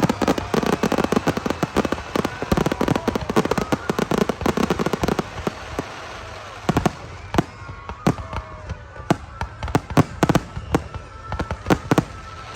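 Fireworks crackling: a dense, rapid run of sharp pops for about the first five seconds, thinning to scattered single pops.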